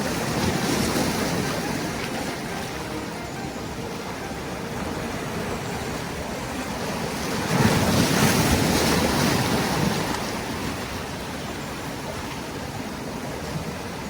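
Ocean surf washing steadily, with one wave breaking louder for a couple of seconds about halfway through.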